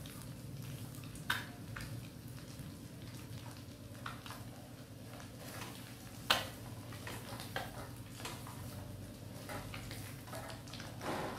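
Quail eggs frying in oil in a pan with a faint sizzle, a utensil knocking and scraping against the pan now and then, the sharpest knocks about a second in and about six seconds in. A steady low hum runs underneath.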